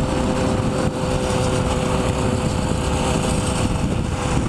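Motorcycle engine running at a steady speed while riding, with a continuous low rumble and a constant drone.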